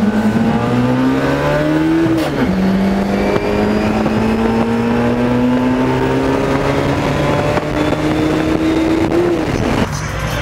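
Turbocharged air-cooled flat-four engine of a Volkswagen TL under hard acceleration, heard from inside the cabin. The revs climb, drop at an upshift about two seconds in, then climb again through the next gear before another shift near the end.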